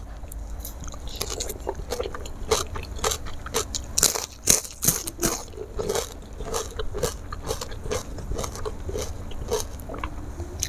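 Close-up crunchy chewing of karedok, raw vegetables in peanut sauce, eaten by hand, with a run of crisp crunches. The loudest crunches come about four to five seconds in.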